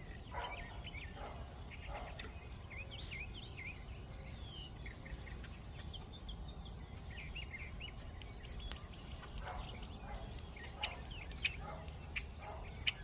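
Small birds chirping with many short, quick calls throughout, a few lower call notes mixed in, over a steady low background noise with scattered sharp ticks.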